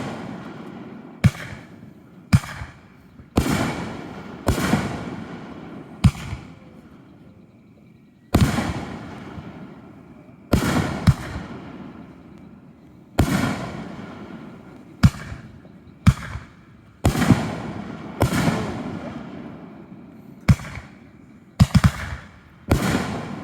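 Aerial firework shells bursting one after another in a fireworks show: a sharp bang every second or two, each trailing off over a second or two, with a few bursts coming in quick pairs.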